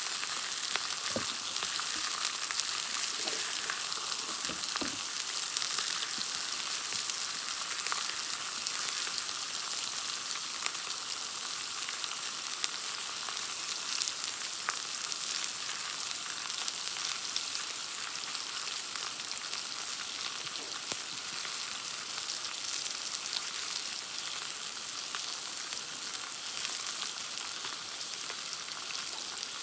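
Steak sizzling and spitting as it cooks over a campfire, a steady dense hiss full of fine crackles.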